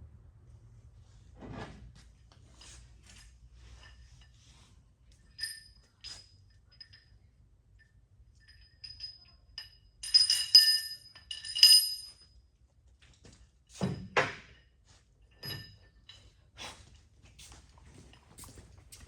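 Steel engine parts and tools being handled and set down: scattered metal clinks and knocks, with a loud pair of ringing clinks about ten to twelve seconds in and a few dull thunks.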